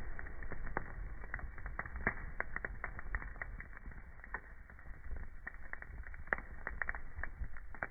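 Wood fire crackling, with many irregular pops and snaps over a steady low rumble of the flames and one sharper pop about six seconds in.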